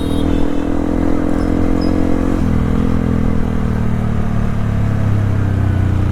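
Yamaha WR155R's single-cylinder engine running steadily under way, its note dropping suddenly about two and a half seconds in and then holding at the lower pitch.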